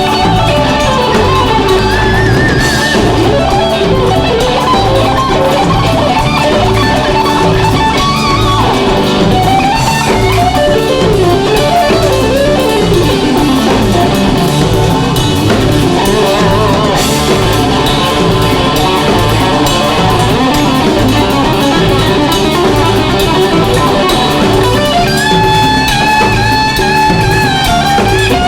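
Live rock band playing. An electric guitar leads with bending, sliding notes over a drum kit.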